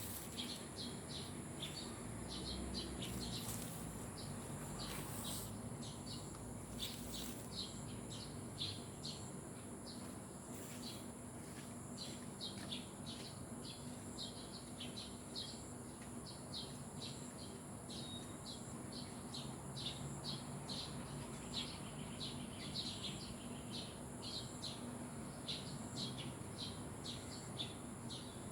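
Small birds chirping: many short, quick chirps following one another closely, over a steady high-pitched hiss and a faint low hum.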